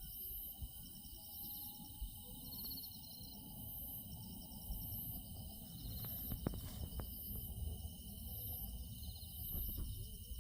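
Insects chirping in a steady outdoor chorus, with a constant high trill and short chirps repeating at an even pace, over a low wind rumble on the microphone.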